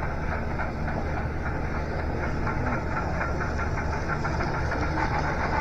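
Model train running along the layout: a steady low hum with a fast, even clicking on top.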